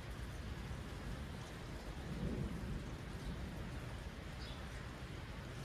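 Thunderstorm ambience: steady rain noise with a low rumble that swells briefly about two seconds in.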